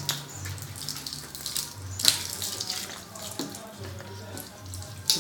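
Running water splashing onto a car as it is rinsed with plain water, no soap, with a few louder splashes.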